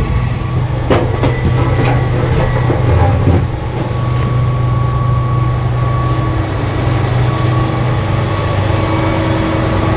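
Grapple truck's diesel engine running steadily to drive its Rotobec knuckle-boom loader, with a steady whine over the engine note and a few sharp knocks in the first few seconds.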